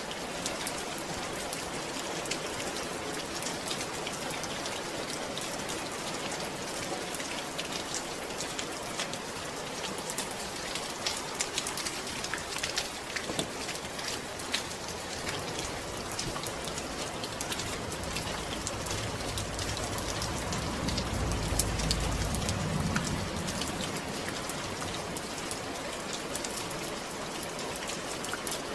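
Steady rain falling, a dense patter of many small drops. A low rumble swells and fades about two-thirds of the way through.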